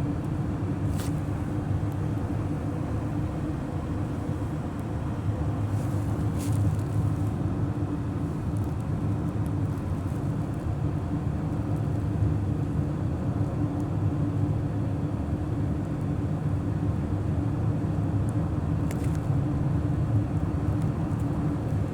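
Steady low rumble of a car on the move, engine and road noise heard from inside the cabin, with a few faint clicks.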